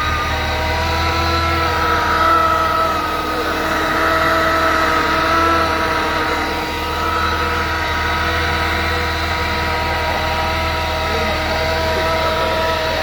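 Supercharged Mazda MX-5's four-cylinder engine running at idle on a base map just after the supercharger was fitted, with a steady whine over the engine note. The revs swell a little a few seconds in and settle again.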